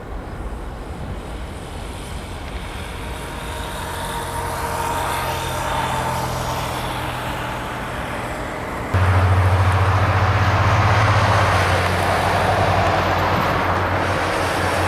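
Jet airliner engines: a steady rush with a faint whine that builds over several seconds. About nine seconds in it jumps abruptly to a louder roar with a deep low rumble.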